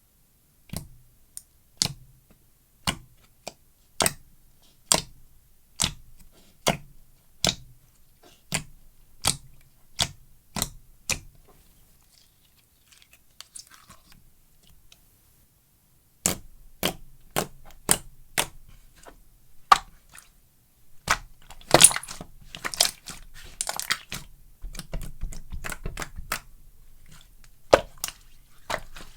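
Slime being pressed and squeezed by hand, giving sharp popping clicks about once a second. After a short lull around the middle, the pops come faster and mix with crackling.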